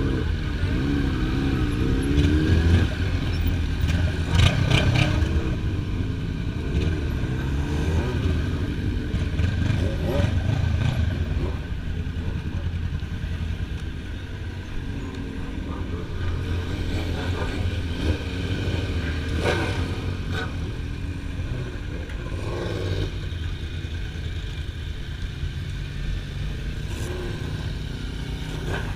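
Motorcycle engines running, with some revving and louder passes in the first few seconds.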